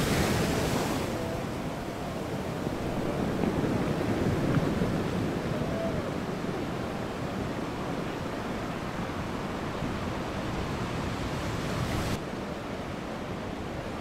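Heavy ocean surf breaking, a steady roar of whitewater with wind buffeting the microphone. About twelve seconds in the sound drops suddenly in level and loses its hiss.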